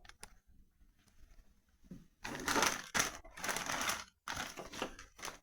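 Plastic bags of miniature parts rustling and crinkling as they are handled, in two noisy stretches after a near-quiet start.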